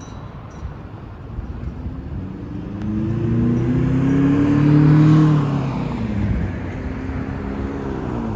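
A road vehicle drives past. Its engine note grows louder to a peak about five seconds in, then drops in pitch and fades as it goes by.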